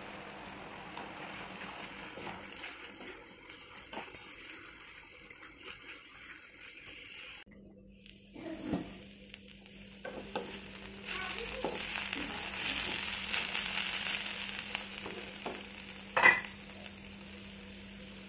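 Chopped mushrooms and spice paste frying in an oiled nonstick pan, sizzling, with a spatula clicking and scraping against the pan as they are stirred. The sizzle grows louder about eleven seconds in, and there is a sharp knock of the spatula on the pan about sixteen seconds in.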